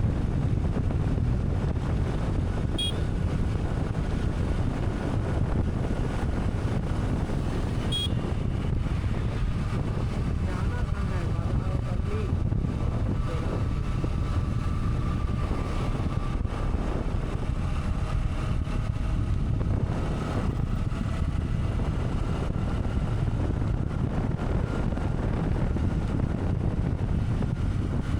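Steady low rumble of wind and engine noise from a motorcycle on the move, with a couple of brief clicks a few seconds in.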